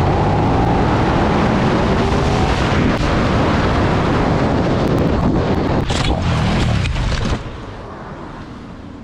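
Motorcycle riding at speed, its engine note gliding up under a heavy rush of wind noise. The loud rush drops off suddenly about seven seconds in, leaving a quieter steady rush.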